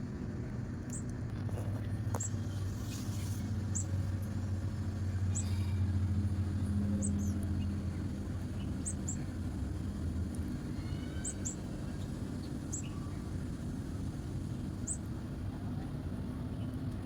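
A small bird giving short, high chirps about once a second, over a low rumble that swells and then fades, like traffic passing.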